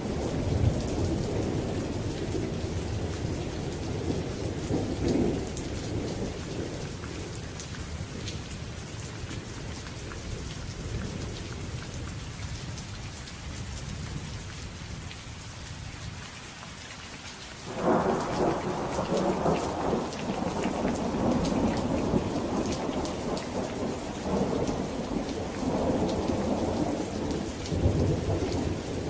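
Steady rain falling, with rolling thunder. One rumble dies away over the first half, then a new thunderclap breaks suddenly about two-thirds of the way in and keeps rumbling.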